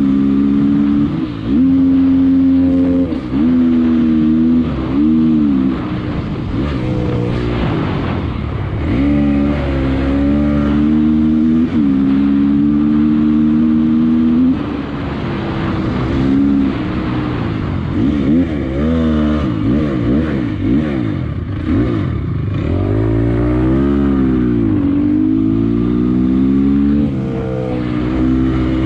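Motorcycle engine at high revs during a chase, climbing in pitch and dropping back again and again as the rider accelerates and shifts gears.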